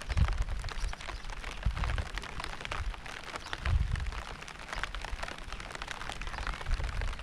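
Steady rain falling, a dense patter of individual drops, with short deep rumbles swelling up four times.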